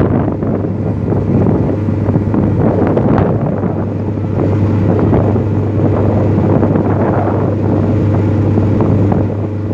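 A boat's engine drones steadily, with wind buffeting the microphone.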